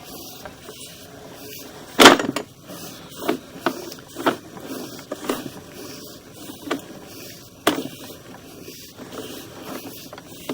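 Irregular knocks and clunks from sewer inspection camera gear as its push cable is worked through the line, with one sharp, loud knock about two seconds in and about half a dozen smaller ones after it.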